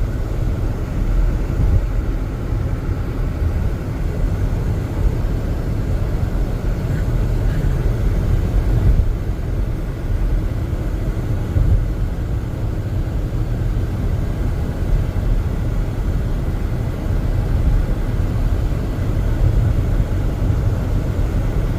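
Steady low rumble of a car driving slowly on a snowy highway: tyre and engine noise heard from inside the cabin.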